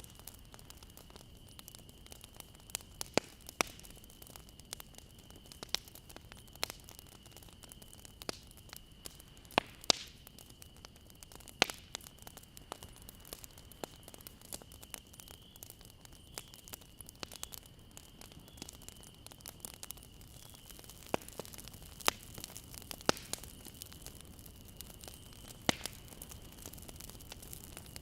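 Campfire burning: wood crackling with irregular sharp pops over a steady hiss, with a thin high-pitched tone running underneath.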